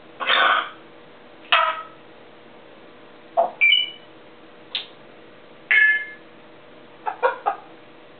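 African grey parrot giving a string of short squawks and whistles, about six separate calls over eight seconds. Some are harsh and noisy, and others carry clear whistled notes.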